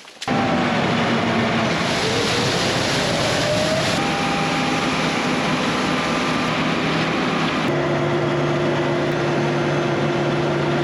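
Heavy farm machinery running steadily, a dense mechanical noise under a low engine hum. A tone climbs between about two and four seconds in, and a steadier, lower hum takes over near eight seconds.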